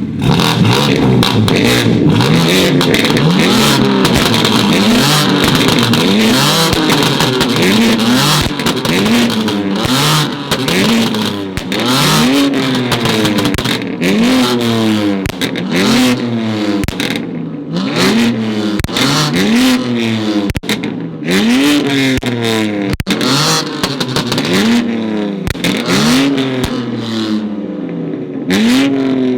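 Modified sports car engine being revved hard over and over, each rev rising and falling in pitch about once a second, with a few sharp exhaust pops between revs.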